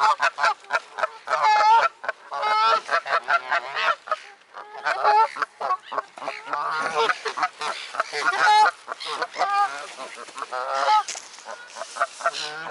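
A flock of geese honking, many loud calls overlapping one after another with hardly a pause, the birds excited as they crowd in to be fed.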